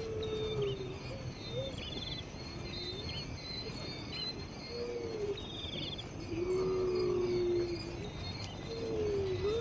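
Birds chirping and trilling over a steady insect drone, with long, low whistled tones that bend slightly in pitch, coming every few seconds.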